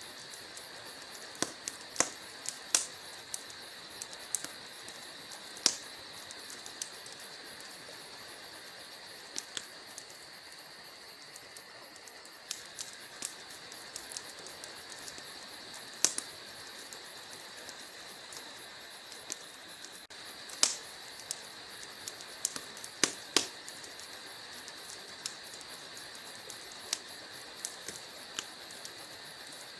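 Wood fire burning in a fireplace: a steady soft hiss under irregular sharp crackles and pops from the burning logs, with a few louder snaps scattered through.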